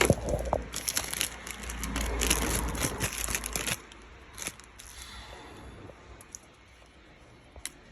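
Crinkling plastic packaging as the new AC expansion valve and its O-rings are handled, for about three and a half seconds, followed by a few light clicks.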